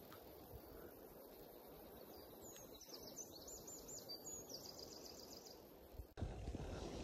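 A small songbird sings faintly, a string of repeated high chirping notes ending in a quick trill, over quiet rural ambience. Near the end a louder low rumbling noise cuts in abruptly.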